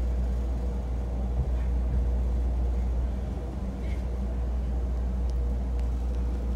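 Inside the cabin of a 251 series Super View Odoriko train rolling slowly alongside a platform: the steady low rumble of the train running, with a faint steady tone over it.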